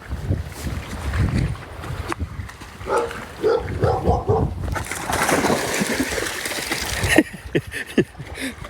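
A dog splashing and thrashing in a water-filled pool, with short pitched cries in the middle and water sloshing after them.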